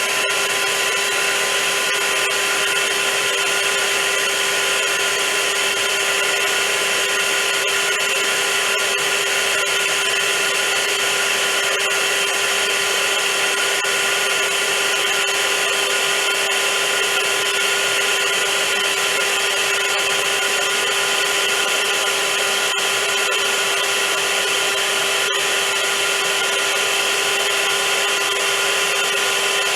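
Vacuum cleaner running steadily: a constant motor hum and whine over the rush of air.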